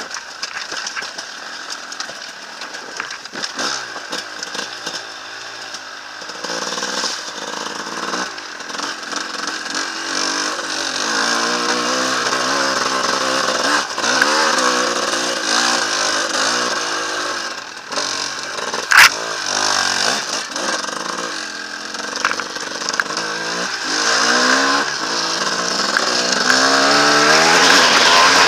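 Enduro motorcycle engine revving up and down again and again, getting louder toward the end, with one sharp crack about two-thirds of the way through.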